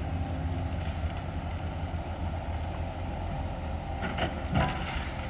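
Backhoe engine running steadily with a low hum, with two short sharp knocks or cracks about four seconds in, the second one louder.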